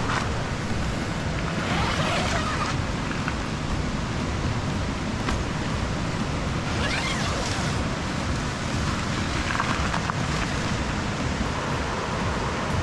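Steady rushing of a river or stream, a loud, even wash of water noise.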